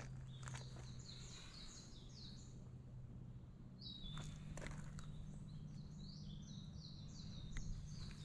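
A small songbird singing two runs of quick, high, stepping notes, the first about a second in and the second starting near the middle, over a steady low hum and a few faint clicks.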